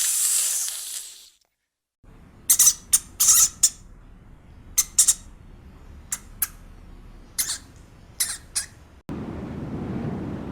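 About a dozen short, sharp, high-pitched bird calls in uneven clusters. A brief hiss comes first, and a steady low rumble begins near the end.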